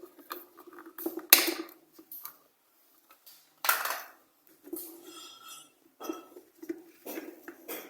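Clicks, knocks and light scraping of hands and a tool working on the plastic base of an electric kettle while it is taken apart, with sharper clicks about a second in and again near the middle.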